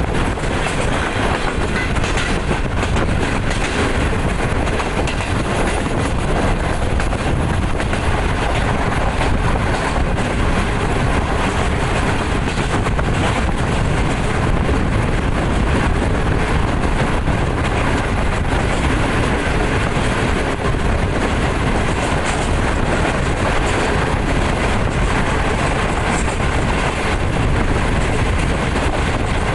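Pakistan Railways Green Line passenger coaches running at speed, heard from the moving train itself: a steady rumble and clatter of the wheels on the track.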